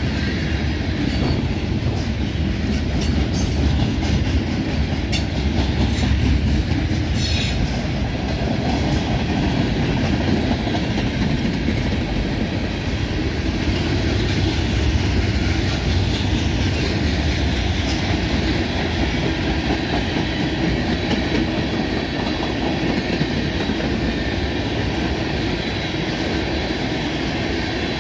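Freight cars of a passing freight train, flatcars, covered hoppers and tank cars, rolling by close: a steady rumble and clatter of steel wheels on the rails. A thin, high wheel squeal and a few sharp clanks come in the first several seconds.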